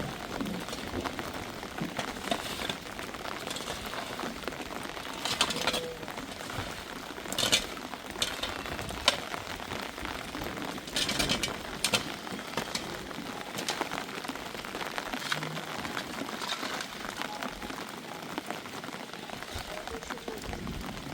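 Rain falling steadily, with occasional louder knocks and rustles scattered through it.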